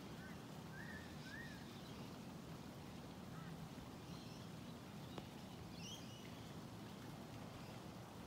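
Faint bird calls, short chirps a few at a time, over a steady low outdoor background hum. There is a single small tick about five seconds in.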